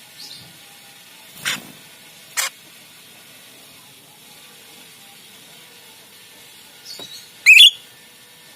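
Jalak rio-rio starling giving short, sharp single calls, two of them spaced about a second apart, then a louder, twisting call near the end, over a steady background hiss.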